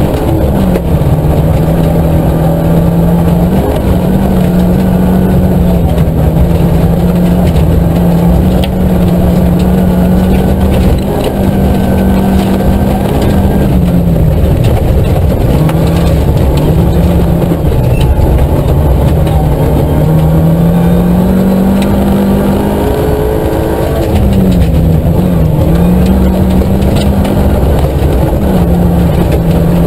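Nissan Micra K11 rally car's four-cylinder engine running hard at high revs, heard inside the cabin, its pitch dropping and climbing again several times as the driver shifts between second and third gear. Small ticks of gravel hit the car's body throughout.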